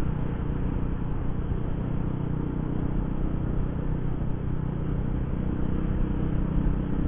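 Small motorcycle engine running steadily at cruising speed while riding, with wind rumbling on the microphone.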